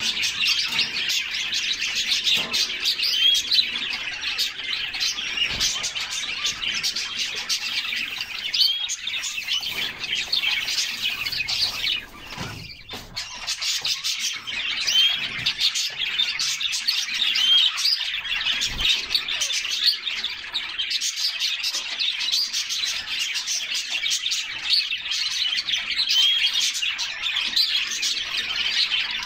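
Several canaries singing and chirping, a dense, unbroken run of high trills and tweets, with a brief lull about twelve seconds in.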